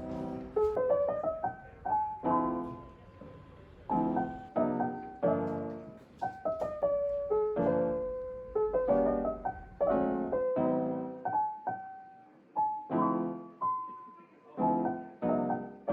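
Background solo piano music: gentle notes and chords struck one after another and left to ring out, with short pauses between phrases.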